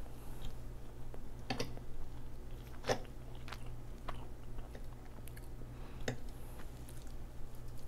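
Close-miked chewing of salmon and noodles, with scattered sharp clicks through it.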